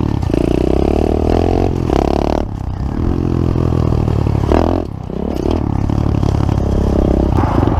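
Pit bike engine running while ridden, the revs rising and falling with a couple of brief drops in the throttle.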